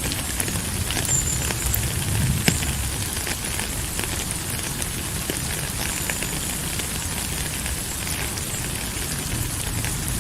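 Steady rain falling, a dense even hiss with scattered sharper drop ticks and a low rumble underneath.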